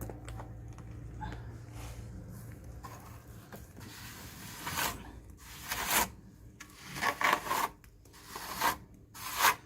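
A plastering tool's blade scraping and rubbing across fresh clay-and-straw plaster, smoothing the coat. It is faint at first, then from about halfway through comes a run of louder rasping strokes about a second apart.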